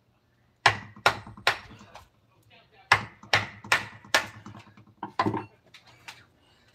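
A mallet driving a carving chisel into wood, in runs of three or four sharp strikes about 0.4 s apart with short pauses between the runs.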